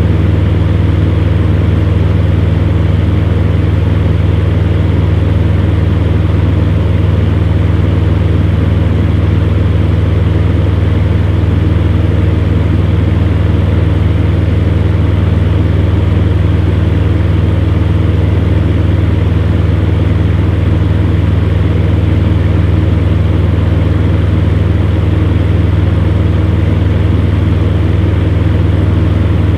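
Electric fan running steadily: a deep, even motor hum with a constant rush of moving air.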